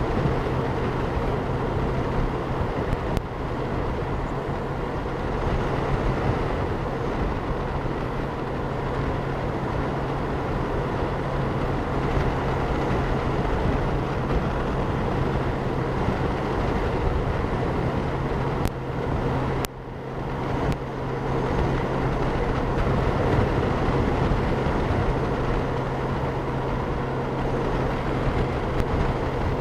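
Honda Gold Wing motorcycle cruising steadily at highway speed, heard from a helmet-mounted camera: an even engine hum under wind and road noise on the microphone. The sound dips briefly about two-thirds of the way through.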